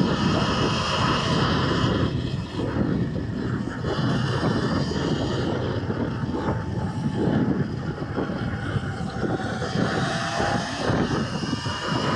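Wind rushing and buffeting over the microphone of a rider on a moving Surron electric dirt bike, with a faint whine under it.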